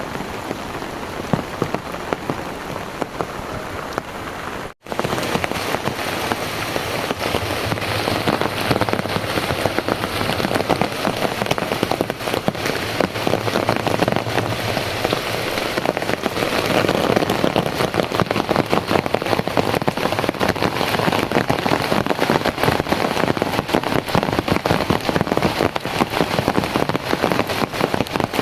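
Heavy rain falling steadily, a dense patter of drops on surfaces. It cuts out for an instant about five seconds in and comes back a little louder.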